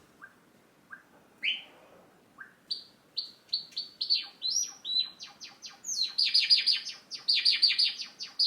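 Java sparrow singing: a few soft, short notes at first, then its song building into a fast, rapid run of sharp chattering notes over the last couple of seconds.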